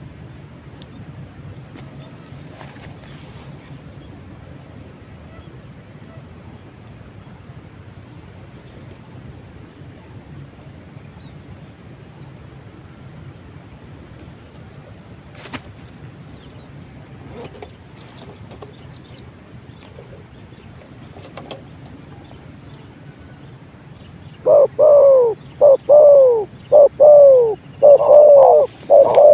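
A steady high insect trill, then about 24 seconds in a spotted dove starts cooing loudly and close by: a run of short, arching coo notes in quick succession.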